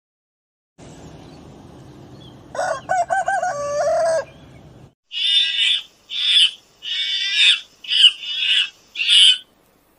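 A rooster crows once, a wavering call of about a second and a half starting some two and a half seconds in, over a faint background hum. After a short break come six short, hoarse calls in quick succession.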